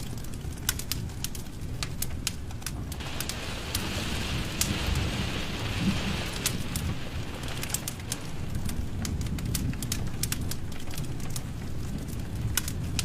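Wood fire in a fireplace crackling, with frequent sharp pops over a low steady rumble. A soft hiss rises in about three seconds in and fades out again around seven seconds.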